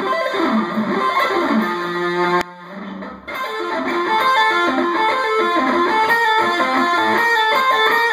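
Ibanez V electric guitar with Seymour Duncan Blackout active pickups, played through a small practice amp with no effects in fast sweep-picked arpeggio runs. The notes break off briefly about two and a half seconds in, then pick up again.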